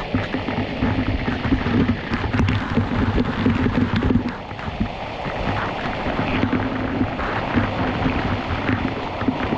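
A waterfall's rushing water as a steady, loud wash of noise, with a faint low hum coming and going.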